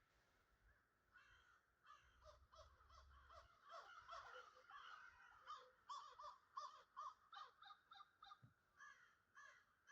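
Faint birds calling in many short, quick calls, several a second, from about a second in until near the end.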